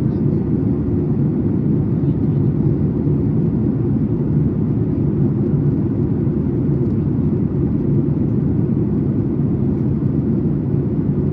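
Steady low rumble inside the passenger cabin of a Boeing 737 MAX 8, from its CFM LEAP-1B engines and the airflow, heard from a window seat. No changes or distinct events.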